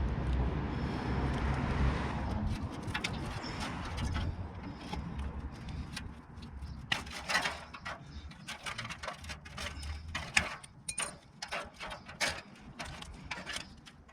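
Tin snips cutting sheet metal: a run of irregular sharp snips and crunches that starts about halfway through. Before that there is a low rumble that fades away.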